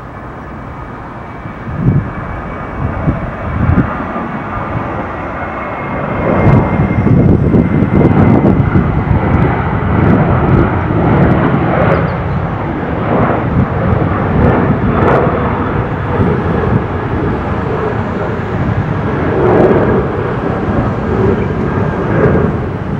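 Boeing 737-800 jet's twin CFM56-7B turbofan engines at takeoff thrust: a faint high whine over steady jet noise, swelling about six seconds in into a loud, rough rumble that stays loud as the jet passes.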